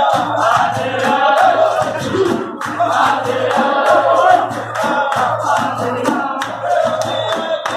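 A group of voices singing together over steady rhythmic hand percussion.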